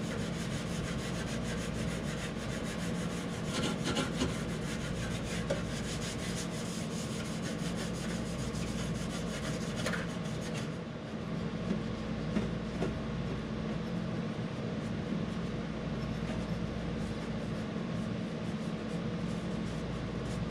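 Scotch-Brite pad rubbing over painted sheet metal, scuffing the engine bay before paint: a steady scraping hiss, with a low steady hum underneath.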